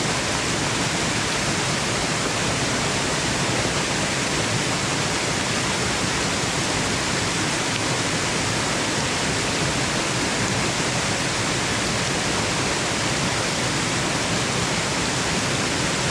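Waterfall rushing, a steady, even noise that does not change, played as white noise for sleep.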